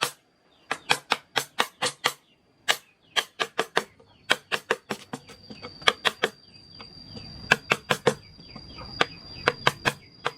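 Mallet striking a carving chisel into wood in quick runs of sharp taps, about three to five a second, with short pauses between runs. An insect's steady high buzz grows louder about halfway through.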